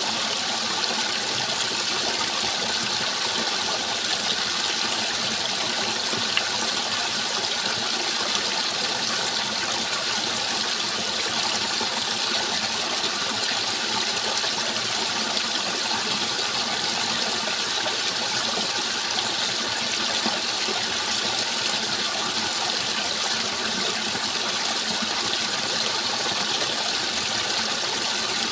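Steady rushing water, an even, unbroken flow with no change in level.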